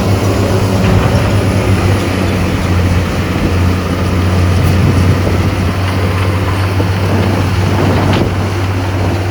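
Diesel engine of a heavy earthmoving machine running steadily, with a strong low drone.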